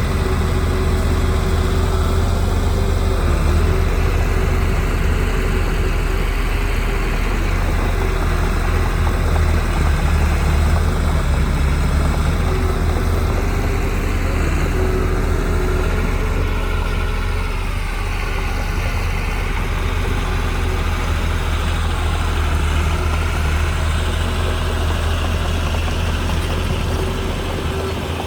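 Heavy diesel engine of earthmoving equipment running steadily, with a brief dip and shift in pitch a little past the middle.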